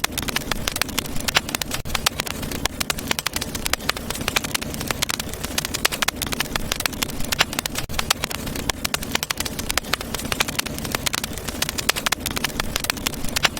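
Wood fire crackling in a fireplace: dense, irregular crackles and pops over a steady low rumble of burning.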